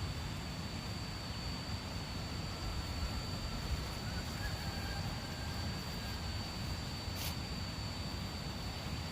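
Outdoor ambience: a steady low rumble with a constant high-pitched whine running through it, and a single sharp click about seven seconds in.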